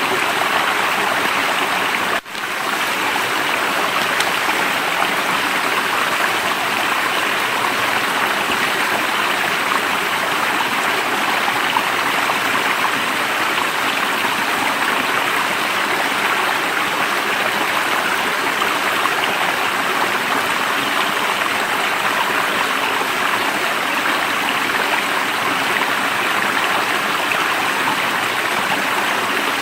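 Stream of water rushing steadily over rocks, an even unbroken flow that briefly cuts out about two seconds in.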